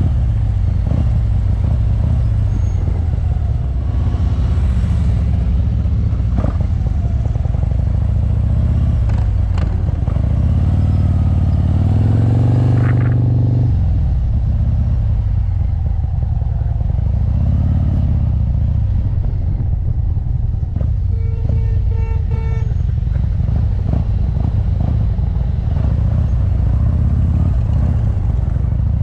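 Motorcycle engine running steadily, with a brief rise in engine speed about halfway through. A quick run of four or five beeps sounds about two-thirds of the way in.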